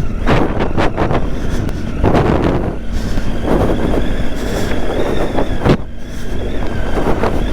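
Triumph Tiger 800's three-cylinder engine running on the move, its sound swelling and easing in surges every second or two, with wind buffeting the microphone.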